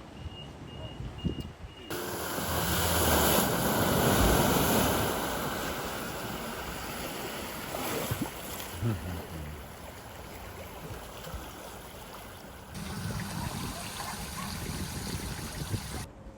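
Water rushing and splashing, swelling to its loudest a few seconds in and changing abruptly several times.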